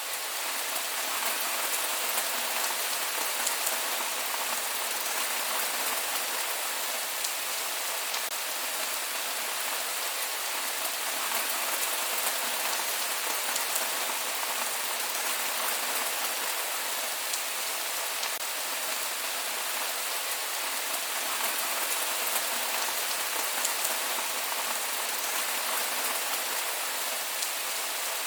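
Steady rain falling, a dense even hiss of drops with scattered sharper drop ticks, and no thunder.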